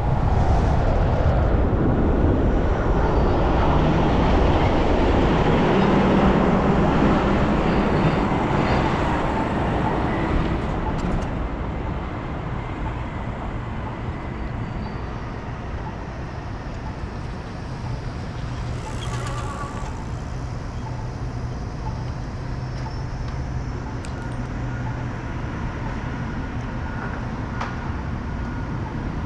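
Road traffic and wind noise heard from a moving bicycle: a loud rushing for about the first ten seconds, then a quieter, steady low hum.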